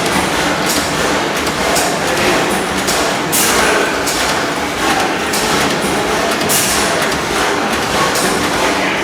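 Antique stationary gas engine running, with a sharp bang every second or so over a steady clatter of machinery.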